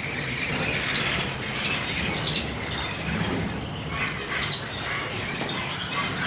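Many small caged birds, canaries among them, chirping and trilling together in a steady overlapping chorus.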